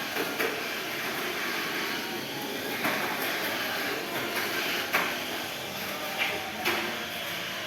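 Steady indoor shop ambience, an even background hum, with a handful of short sharp clicks or knocks at irregular moments.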